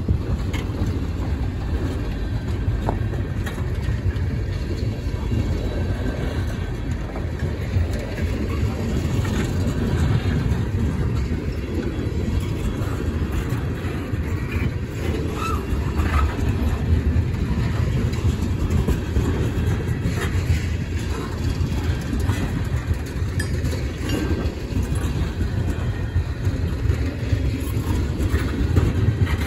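A freight train of railroad tank cars rolling past, its steel wheels on the rails making a steady low rumble with faint scattered clicks.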